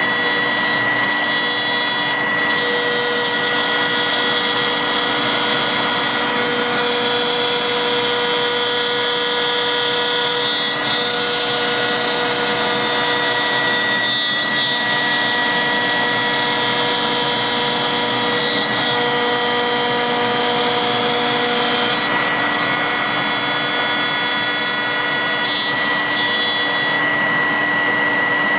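CNC router spindle running with a steady high whine while milling 21 mm multiplex plywood. Fainter tones come and go every few seconds as the cut changes.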